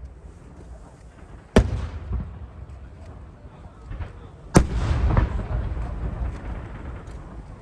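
Aerial firework shells bursting: two loud booms, about a second and a half in and about four and a half seconds in, the second followed by about a second of rumble. Fainter pops come near the end.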